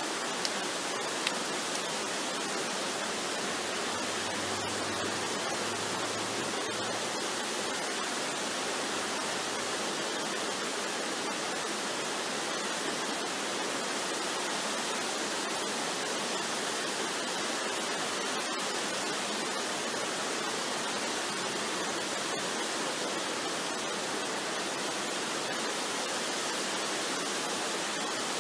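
Waterfall rushing: a steady, even sound of falling water that does not change. A faint low tone sounds briefly about four to seven seconds in.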